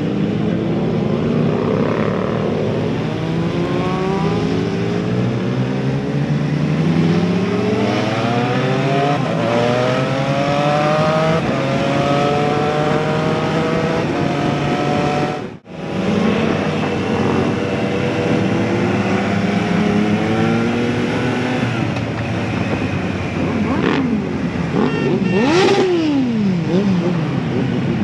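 Motorcycle engine accelerating, its pitch climbing over and over as it pulls through the gears. The sound cuts out for an instant a little past halfway, and near the end a pitch drops steeply.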